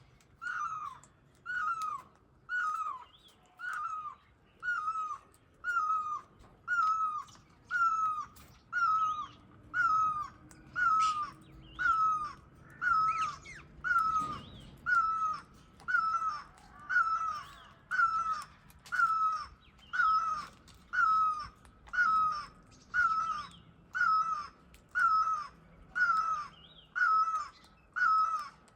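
A bird calling over and over: one short, falling call repeated evenly about once a second, some thirty times in a row.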